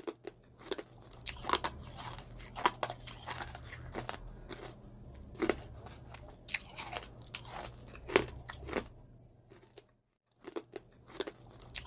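Close-miked eating sounds: crunchy food being bitten and chewed, with many sharp crunches. They stop briefly about ten seconds in, then a few more crunches follow.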